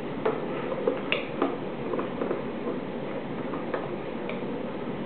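Spoon stirring soapy water in a drinking glass, knocking and clinking against the glass in irregular taps.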